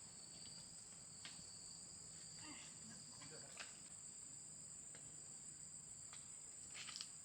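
Steady, faint, high-pitched chirring of crickets, with a few soft clicks or taps.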